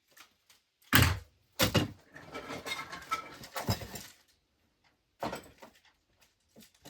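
Household items being handled and set down: two sharp knocks about a second in, then rustling and clatter with another knock, and a short burst of clatter near the end.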